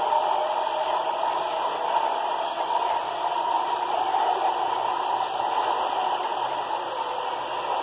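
New York City subway 4 train running along the platform, a steady rushing rumble of wheels on rail with a faint steady whine.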